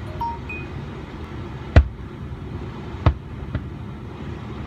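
Firework shells bursting in the sky: two loud booms about a second and a half apart, then a fainter one shortly after, over a steady low background rumble.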